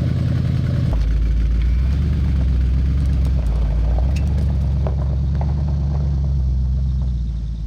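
Land Rover Discovery 4's engine idling just after starting, its low steady drone dropping in pitch about a second in as the revs settle.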